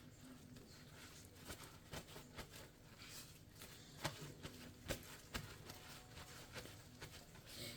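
Near silence with faint, scattered soft taps and rustles: raw chicken breast pieces being handled and patted dry.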